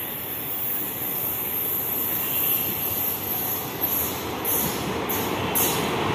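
Approaching express train hauled by a WAP-7 electric locomotive, a steady rumble growing gradually louder. In the second half, regular clicks come about twice a second as the wheels pass over rail joints.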